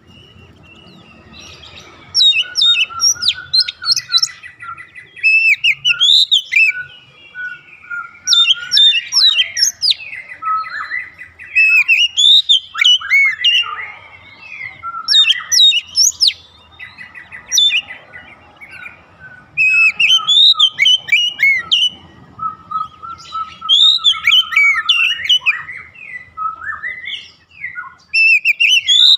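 Oriental magpie-robin (kacer) singing: loud bursts of sharp, down-slurred whistled notes every two to four seconds, with softer warbling between the bursts.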